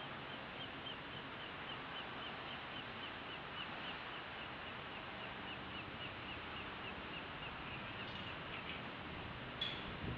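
A bird calls a long run of short, evenly spaced chirps, about four a second, over a steady background hiss. The chirps stop about two seconds before the end, and a sharp click follows.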